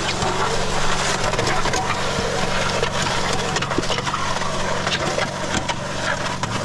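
Concrete mixer running with a steady low engine hum while bagged concrete mix churns in the drum with a dense gritty crackle.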